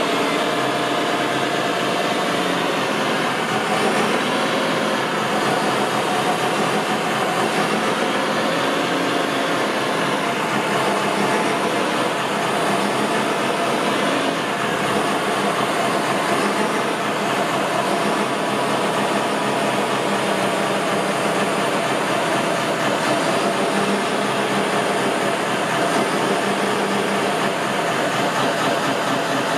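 Remote-control construction vehicles running, a steady mechanical drone of their motors and gears with several held tones at once.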